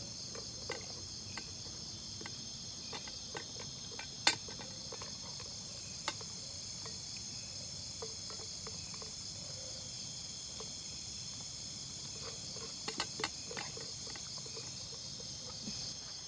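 Steady chorus of crickets and other insects, a constant high shrill with a faint pulsing above it. Scattered small clicks and knocks sound over it, the sharpest about four seconds in and a few more around thirteen seconds.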